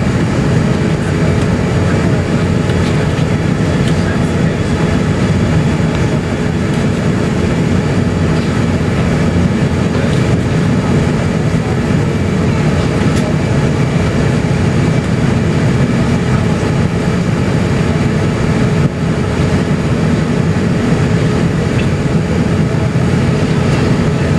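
Steady cabin noise of an Airbus A350-900 taxiing on its Rolls-Royce Trent XWB engines at idle: an even low rumble with a faint steady hum, heard from inside the cabin.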